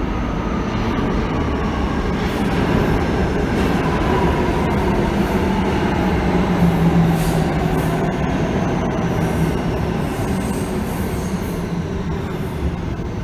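Train moving through the station: a steady rumble of wheels on rails with faint wheel squeal and a whine that falls in pitch, loudest about seven seconds in.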